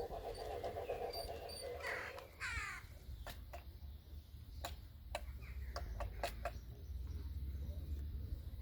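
Two harsh bird calls about two seconds in, as a buzzing hum fades out, followed by a run of irregular sharp clicks.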